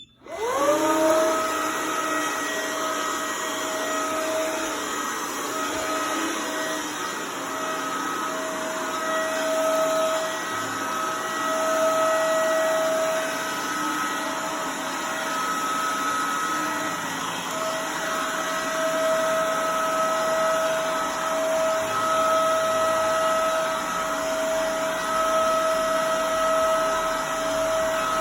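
Bissell vacuum with a cloth brush roll switching on and running loudly, its motor whine rising in pitch in the first second, then holding steady over an airy hiss.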